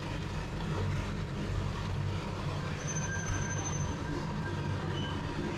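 Inside a moving train: the steady low rumble of the car running on the rails, with a few faint, thin high tones from the running gear.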